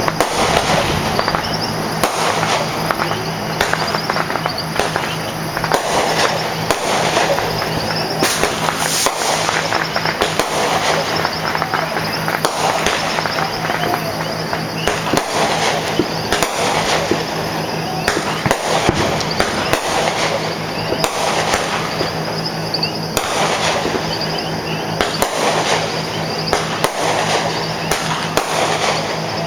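Many fireworks and firecrackers going off at once: a dense, unbroken run of pops and bangs with no pauses.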